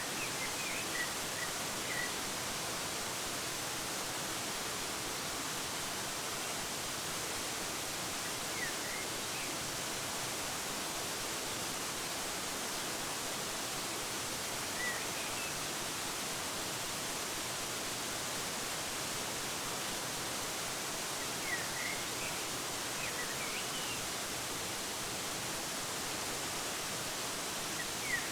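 Waterfall water rushing in a steady, even hiss, with brief bird chirps now and then: a few near the start, one or two in the middle, and a cluster of quick chirps in the last third.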